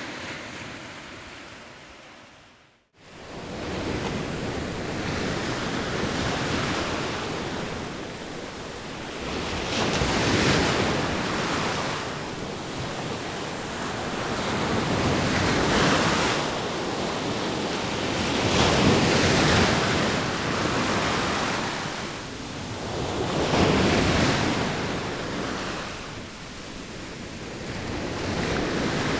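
Sea waves washing onto the shore in slow surges, one swelling and falling back about every five seconds. The sound fades out to silence about three seconds in and fades straight back up.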